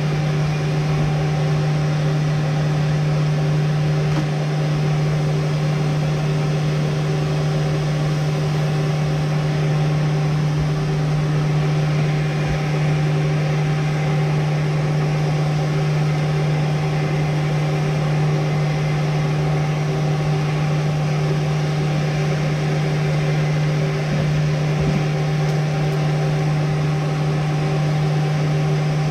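Blacksmith's forge running with a steady, unbroken mechanical hum, with no hammer blows.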